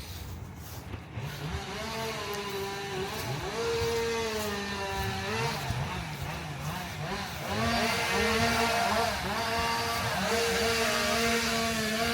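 Chainsaw engine running and revving, its pitch rising and dropping back over and over, starting about a second and a half in.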